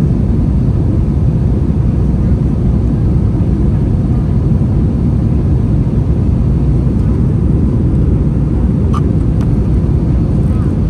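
Steady low drone of an Airbus A321's cabin in flight, from airflow and its IAE V2500 turbofan engines, heard from a window seat. A couple of faint clicks sound about nine seconds in.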